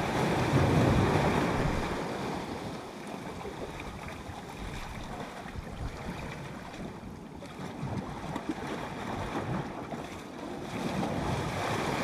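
Sea water washing against the shore, with wind buffeting the microphone; louder for the first couple of seconds and again near the end.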